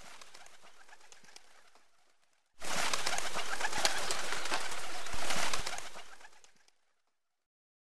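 Bird sounds over a background of outdoor noise: a faint stretch that fades out in the first two and a half seconds, then a louder one with many sharp clicks, which fades out at about seven seconds.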